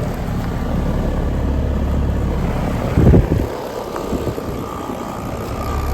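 A 1994 1.5-ton air-conditioning condenser running with a steady low hum from its compressor and fan, which the technician says sounds like it's about to blow its compressor terminals. A short, louder rush comes about three seconds in.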